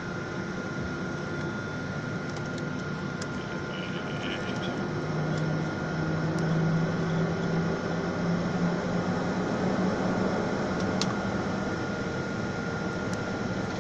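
Airliner cabin noise: a steady hum and hiss from the engines and air conditioning with a constant high whine, growing louder about five seconds in.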